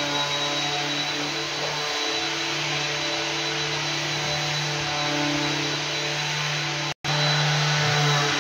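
Electric floor machine running steadily: a constant motor hum with a thin high whine over it. The sound drops out for an instant about seven seconds in, then resumes.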